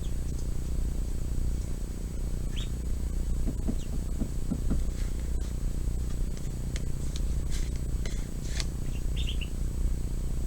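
A bird chirping: several short, high chirps at scattered moments. Under them runs a steady low hum.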